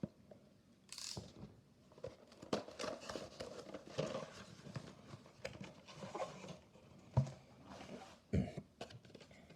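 Packaging being handled: irregular rustling with small clicks and taps, and a single louder thump near the end.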